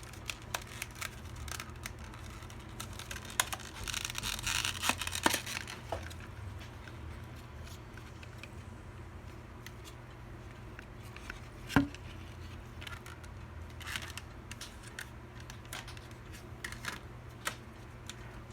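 Computer parts and their packaging being handled: scattered light clicks, a burst of rustling and crinkling about four seconds in, and one sharp click near the middle.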